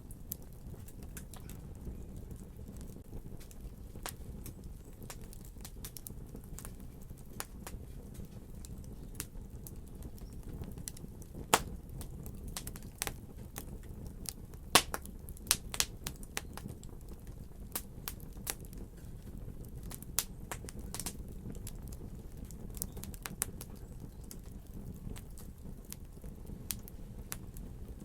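Wood fire crackling: irregular sharp pops and snaps over a low steady rumble of burning, with a few louder pops about halfway through.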